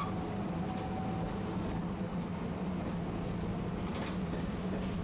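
Inside a Tosaden streetcar: a steady low hum from the tram, with a faint thin tone in the first second or so and a few light clicks around four seconds in.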